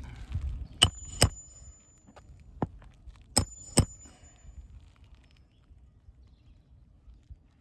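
Hammer driving roofing nails into asphalt shingles: five sharp strikes, mostly in quick pairs, with a brief metallic ring after each pair.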